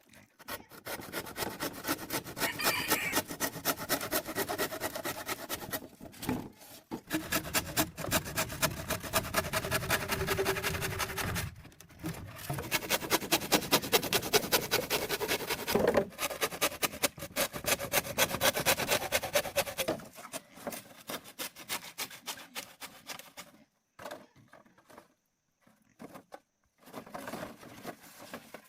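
Fast, rhythmic scraping strokes on wood, several a second, pausing briefly three times, then giving way to a few scattered scrapes near the end.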